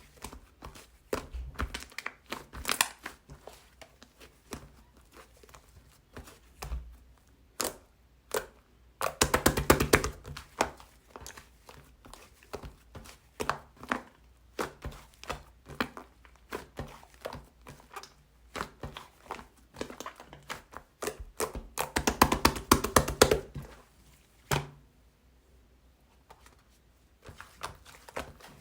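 Hands squishing and pressing handmade foam slime: many small crackling, popping clicks, with two stretches of fast, dense crackling, about nine seconds in and again about twenty-two seconds in.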